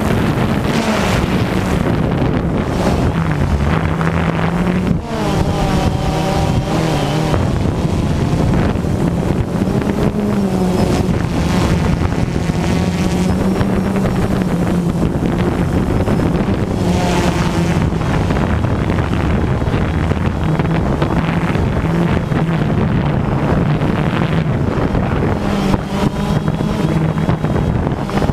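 DJI Phantom 2 quadcopter's motors and propellers buzzing in flight in high wind, the pitch of the hum stepping up and down as the motors change speed, with heavy wind noise on the microphone.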